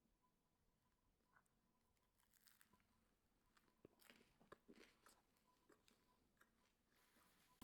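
Faint chewing of food, with soft, irregular crunches starting about two seconds in.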